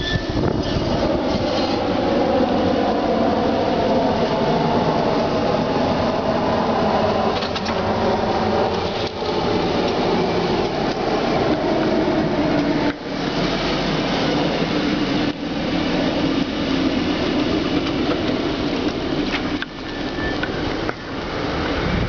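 Honda Civic in motion, with a grinding noise over the running sound; a tone in it slides down in pitch over several seconds, then holds steady.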